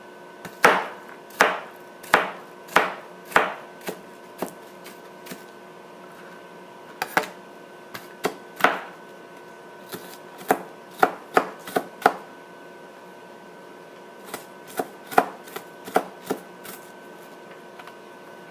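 A kitchen knife chopping onion on a cutting board: sharp separate strokes, at first a steady one every half second or so, then in uneven bunches with short pauses.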